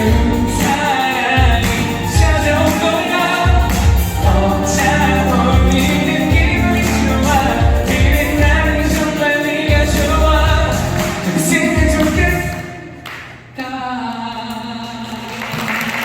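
Male vocalist singing an upbeat pop wedding song live over a backing track with a pulsing bass beat. The music stops about 13 seconds in, a last chord is held, and applause starts near the end.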